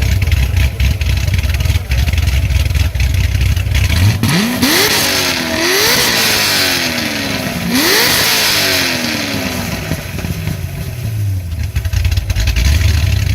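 Corvette V8 exhaust idling, then revved three times in quick succession about four seconds in, each rev climbing and falling away, before settling back to a steady idle.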